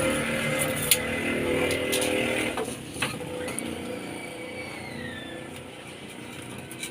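Electric power saw running, with sharp clicks and knocks, stopping about two and a half seconds in; a falling whine follows.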